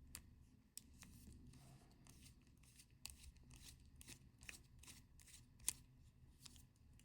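Faint, irregular small metallic clicks and ticks of a small screwdriver and tools working the case back screws of a Casio G-Shock watch as it is opened, a couple to a few clicks a second.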